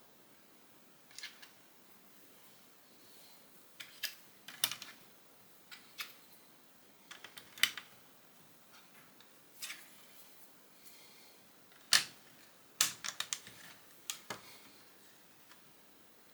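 Lego plastic bricks being handled and pressed together: irregular sharp clicks and small clatters. The loudest click comes about twelve seconds in, followed by a quick run of clicks.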